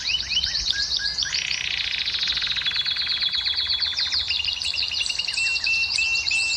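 Domestic canary singing a continuous song of rapid trills that moves from one repeated phrase to the next. It runs from fast chattering runs into a dense buzzing roll, then a series of short clear whistled notes. This is the kind of song played to bring hen canaries into breeding condition.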